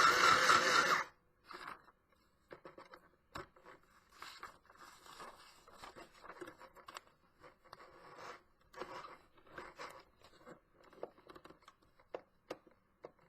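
Easy Home battery-powered mini sewing machine running on low, pretty loud, then stopping suddenly about a second in. After that come faint scattered clicks and rustles of the paper and machine being handled.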